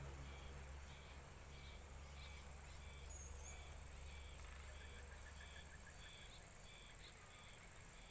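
Faint, regular high chirps, about two a second, over a steady high whine and a low hum.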